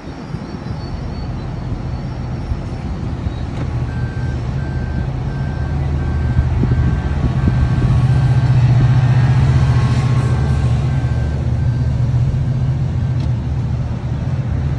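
Sounder commuter train moving past, its diesel locomotive's deep engine drone swelling to its loudest about nine seconds in, then easing off. A run of short, evenly spaced high beeps sounds through the middle stretch.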